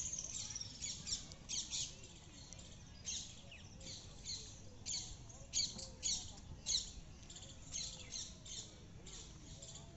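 Birds calling: a series of short, high calls, about one or two a second, over faint outdoor background.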